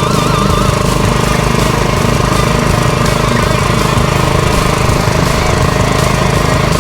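Minibike's small gasoline engine running steadily with an even, rapid rhythm. It has a carburetor problem that the owner says keeps it from running off choke.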